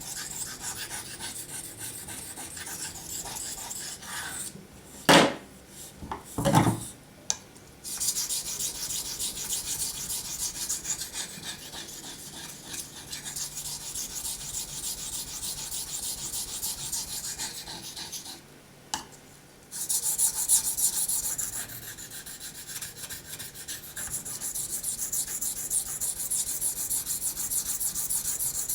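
Steel knife blade being sharpened on a wet waterstone: fast back-and-forth scraping strokes in long runs. The strokes pause twice, and two sharp knocks come around five to seven seconds in.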